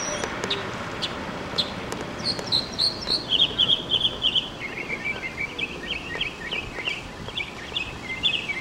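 Birds chirping: a few sharp chips, then from about two seconds in a fast chattering run of short chirps that steps down in pitch as it goes on.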